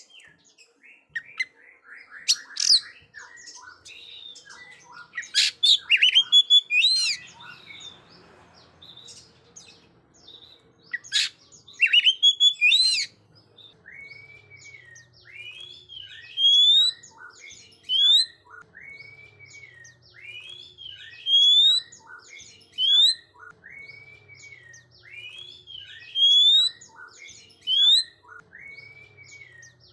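Oriental magpie-robin (kacer) singing loudly in full song with sweeping whistled notes. The first half is varied and rapid. From about halfway on, one phrase repeats about every one and a half seconds: a level whistle followed by rising, sweeping notes.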